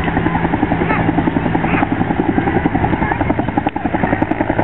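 Aircraft flying low overhead: a loud, steady engine and propeller or rotor sound with a rapid, even beat.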